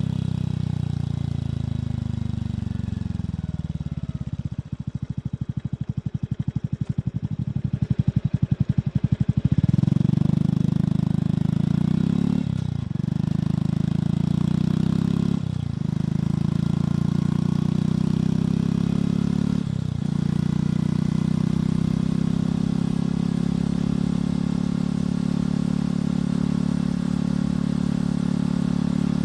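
Motorcycle engine and exhaust: the revs drop over the first few seconds, the engine turns over slowly with separate exhaust pulses audible for several seconds, then pulls away and accelerates through three upshifts, each a brief dip in the sound, before settling into a steady cruise.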